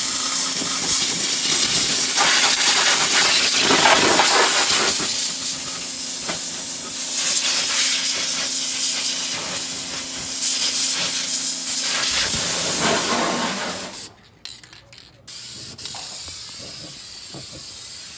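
Black spray paint hissing out in long passes, rising and falling in strength, as bare, rusty suspension and brake parts are coated. The spraying stops for about a second near the end, then resumes more softly.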